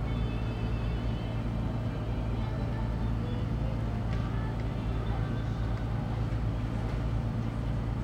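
Steady low engine rumble with no change in pitch, with faint voices in the background.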